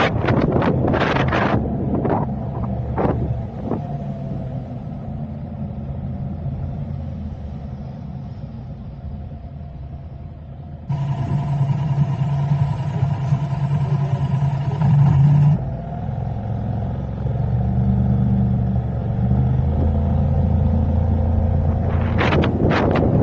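Vehicle engine and road rumble while driving in traffic, with wind buffeting the microphone near the start and again at the end. In the middle a steadier hum with a higher tone sets in abruptly for about five seconds, then stops.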